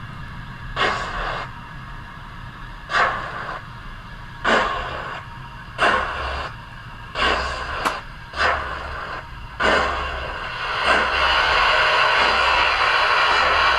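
OO gauge model steam locomotive's sound: slow hissing chuffs, about eight of them one to one and a half seconds apart, giving way to a steady hiss of steam near the end, over a low hum.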